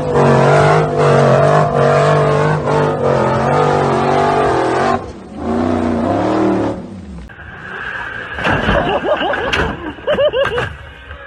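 A car engine revving hard, its pitch wavering, for about five seconds, then briefly again. After a cut, a different recording follows with scattered knocks and short squealing glides.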